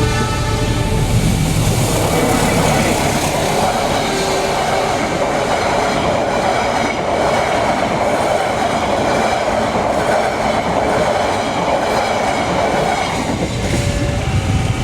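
Indonesian diesel passenger trains passing each other. A diesel locomotive's engine drone fades within the first couple of seconds into the steady rushing, rattling wheel-on-rail noise of carriages going by at speed, which eases shortly before the end.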